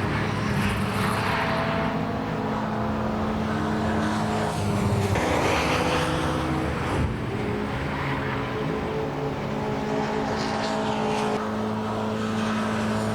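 Several historic saloon racing cars running at full racing speed, their engines held high in the rev range as they pass one after another. The engine notes shift abruptly about seven seconds in.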